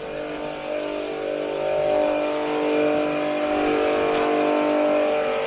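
Electric motor running steadily with a droning hum, drawing water out of an old gas water heater through a drain hose; its pitch shifts slightly about two seconds in.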